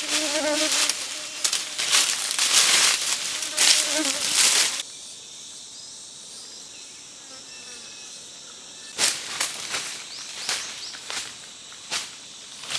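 Insect buzzing with a steady hum, mixed with loud rustling, until it cuts off abruptly about five seconds in. After that comes a fainter steady insect drone, and sharp rustling crackles return near the end.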